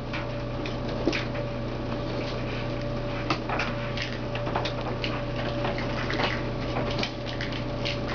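Kittens playing: many small scattered clicks and scratches of paws and toys over a steady hum.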